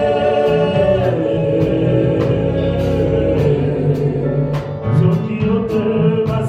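Live gospel worship music: singers hold long notes over a band with a steady drum beat.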